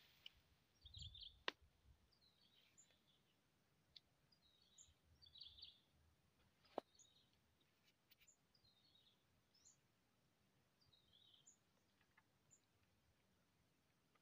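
Near silence, with faint short bird chirps repeating every second or so. Two sharp clicks, about a second and a half and about seven seconds in.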